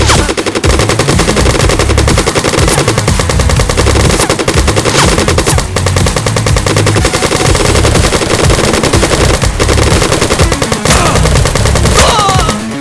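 Sustained rapid automatic gunfire, a stream of machine-gun shots broken by a few short pauses, over a heavy low pulsing beat.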